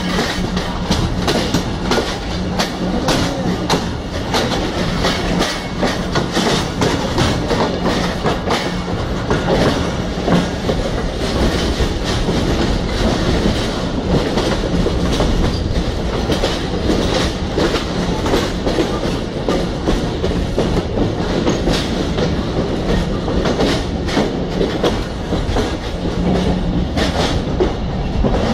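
Train running on the rails: a continuous clatter of many small clicks and rattles from the wheels and cars, over a steady rumble and a low, even hum.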